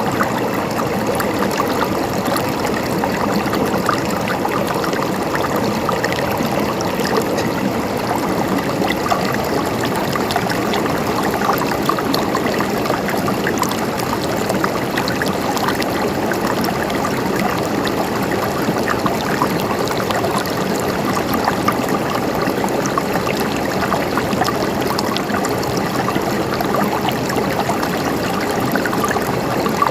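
River water flowing and babbling over rocks, a steady rush with small splashes and trickles throughout.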